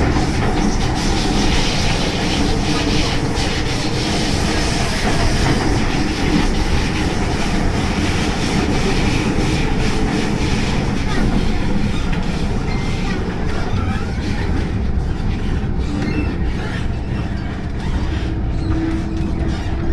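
MTR M-Train electric multiple unit running along the Tsuen Wan Line: a steady rumble of wheels on rail with a clickety-clack of the track. After about two-thirds of the way the higher sounds fade, and a steady low whine comes in near the end.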